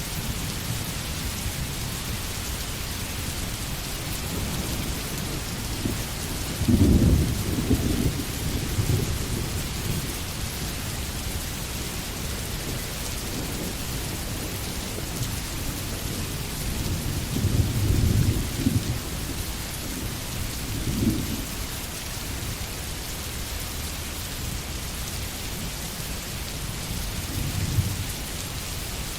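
Steady rain falling, with low rolls of thunder rumbling about seven seconds in, again around eighteen seconds, briefly just after twenty seconds, and once more near the end.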